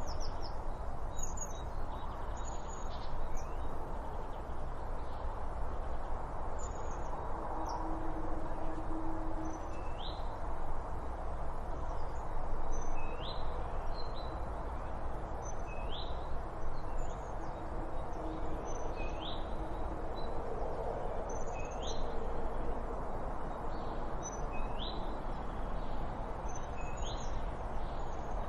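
Wild birds chirping over a steady background hiss. Short high chirps come throughout, and from about ten seconds in one bird repeats a short rising call about every second and a half.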